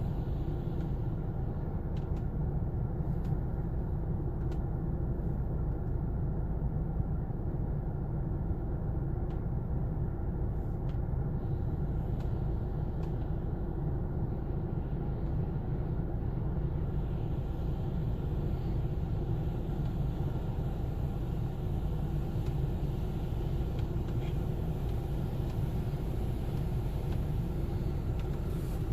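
Steady low rumble inside a car's cabin with the engine running, with a few faint ticks in the first half.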